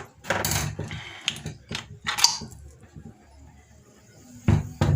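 Small metal parts of a 110cc motorcycle starter motor clinking and scraping as it is handled and taken apart by hand, with two sharp knocks near the end.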